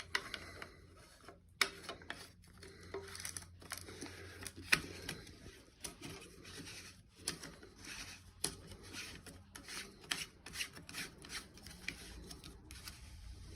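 Handling noise of toilet tank parts: irregular small clicks and rubbing of plastic as the new flush valve and its gasket are fitted to the tank and its nut is worked on.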